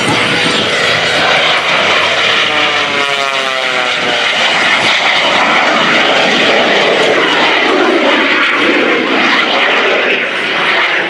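RAD Aerosports Jet Waco, a 1929 Taperwing Waco biplane with a radial piston engine and an underslung jet engine, making a full-power aerobatic pass: a loud, steady engine and jet roar. A propeller tone falls in pitch from about two seconds in to about four and a half as the aircraft goes by.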